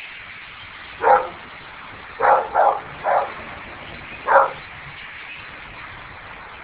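A dog barking: five short barks, two of them in quick succession, over a steady faint hiss.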